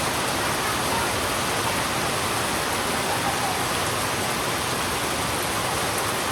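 Heavy rain falling steadily on a road, an even hiss with no breaks.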